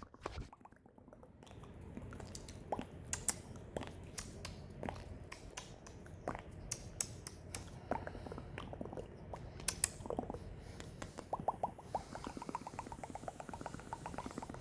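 Close-miked ASMR mouth sounds: scattered wet clicks and smacks. About eleven seconds in there is a quick run of rapid clicks.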